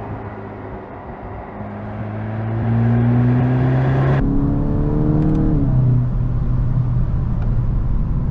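2025 VW Golf GTI Clubsport's turbocharged 2.0-litre four-cylinder pulling under acceleration, its revs climbing and the sound getting louder. There is a sudden change about four seconds in, and the revs fall back a little after five seconds before the engine settles into steady running.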